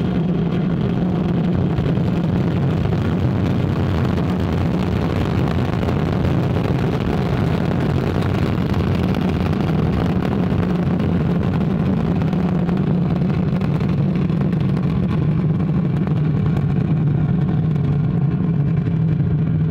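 Ariane 5 ECA rocket at liftoff and climb-out: its two solid rocket boosters and Vulcain 2 core engine making a steady, deep rumble that does not let up.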